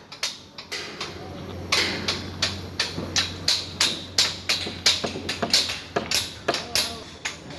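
Repeated sharp hammer blows on steel, about two to three a second, over a low steady hum.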